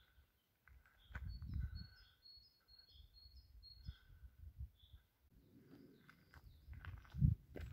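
Songbirds singing: a quick run of about eight high chirps starting about a second in, with other scattered single calls. Low rumbling noise runs underneath, with a thump near the end.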